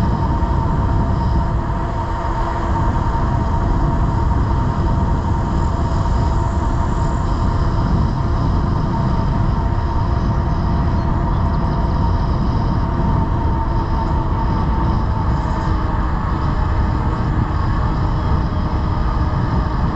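Wind rush and rolling noise of a Cyrusher Kommoda fat-tyre e-bike cruising at speed, a steady low rumble with a thin, constant whine over it.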